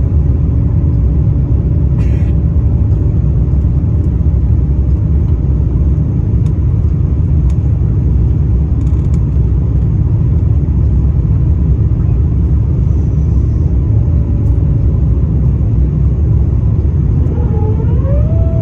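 Airbus A350-900 cabin noise heard from a window seat: its Rolls-Royce Trent XWB jet engines and airflow make a loud, steady low rumble with a faint steady hum over it. Near the end a tone briefly rises and then falls.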